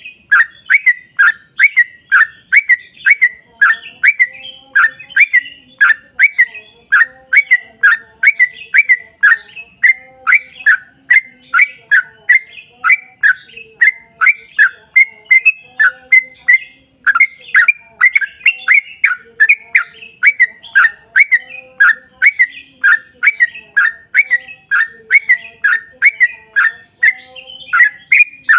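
Yellow-vented bulbul (trucukan) singing a long unbroken run of short chirping notes, about three a second, with a brief pause about halfway.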